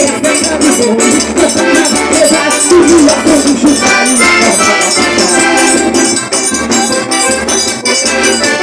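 Live forró trio music: an accordion melody over a quick, steady percussion beat, with no singing.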